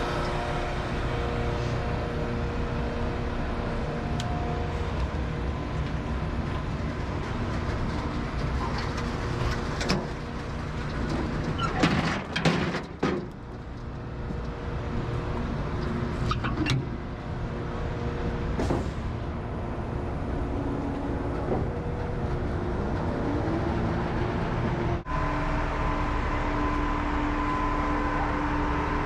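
Concrete mixer truck's diesel engine running steadily, with a cluster of knocks and clatter about twelve seconds in, the loudest moment, and a few single clicks later. Near the end the engine's tone changes abruptly.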